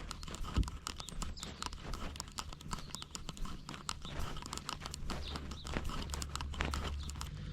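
Many quick, irregular clicks and scrapes from a cat moving about with a GoPro strapped to it, over a low steady rumble.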